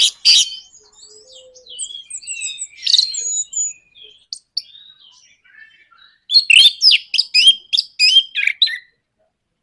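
Orange-headed thrush (anis merah) singing in its rapid rattling 'nraktak' style: loud quick-fire note series at the start and again from about six seconds in, with softer varied whistled notes between. It breaks off about a second before the end.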